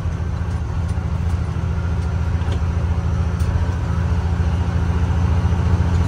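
Vehicle engine running steadily under load with road noise, a low even drone that grows slightly louder, heard while hauling round bales on the road.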